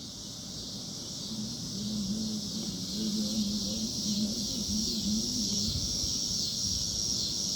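Cicadas buzzing in a steady chorus with a slow pulsing rise and fall. From about a second in, a low wavering tone also rises and falls for several seconds.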